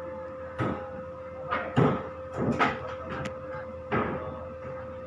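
Foam shredding machine running with a steady hum, broken by several irregular knocks and rustling bursts.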